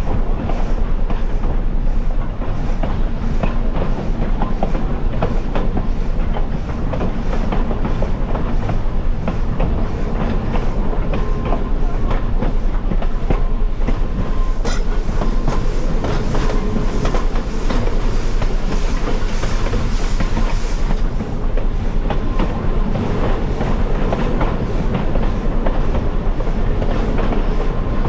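Passenger train cars rolling along the track, heard from on board: a steady loud rumble with the wheels clicking over rail joints.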